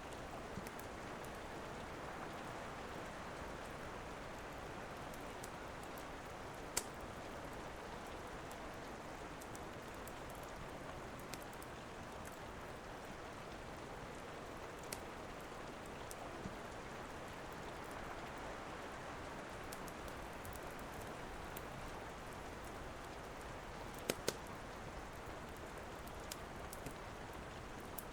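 Steady rain falling, a soft even hiss, with a handful of sharp pops from a crackling fireplace fire, two of them in quick succession.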